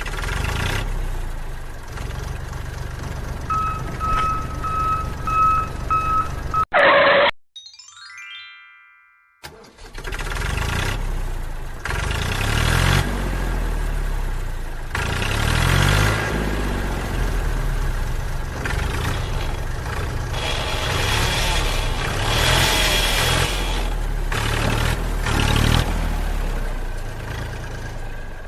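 Small engine running, its pitch rising and falling, broken by an edit about seven seconds in, with a short repeated beep just before the cut and a falling electronic tone just after it.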